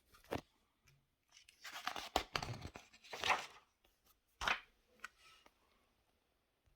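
Paper catalog pages being handled and turned: a few rustling swishes and crinkles, the loudest run of them through the middle and one more sharp swish a little later.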